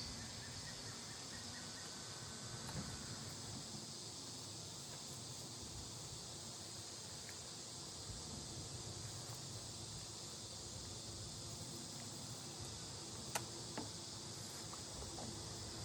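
Honeybees humming around an open hive, with a steady high insect chirring over it. Two light knocks come about thirteen seconds in.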